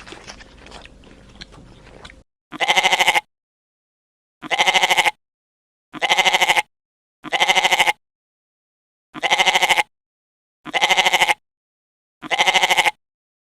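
Crunching, chewing noise for about two seconds, then the same goat bleat repeated seven times, each about two-thirds of a second long, with dead silence between them: one recorded bleat looped.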